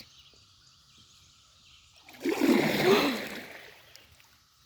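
A kayak paddle stroke splashing into the river about two seconds in, then fading over a second or so. Before it, only a faint steady high tone.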